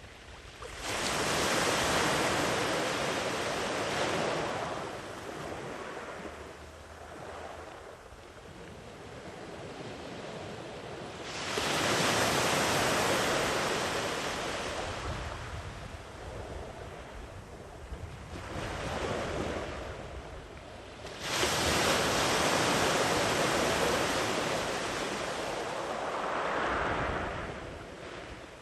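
Ocean waves breaking and washing up a sandy beach, three big swells about ten seconds apart, each starting suddenly and fading slowly, with wind on the microphone.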